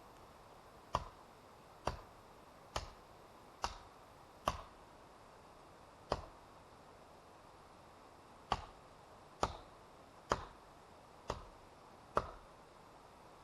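Eleven sharp knocks, each dying away quickly, most coming a little under a second apart with two longer gaps around the middle.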